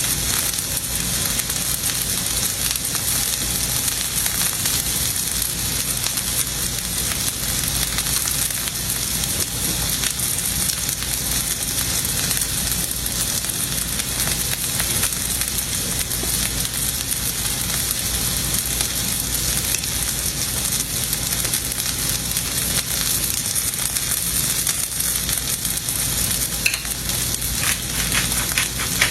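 Steak sizzling and crackling as it sears, a steady dense frying hiss with a few small pops near the end.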